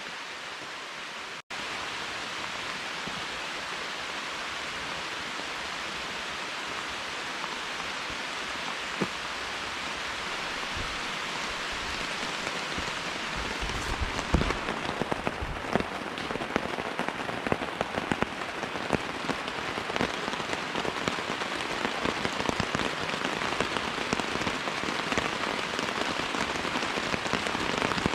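Heavy rain falling steadily, with individual drops striking a surface more and more from about halfway through as the downpour grows heavier.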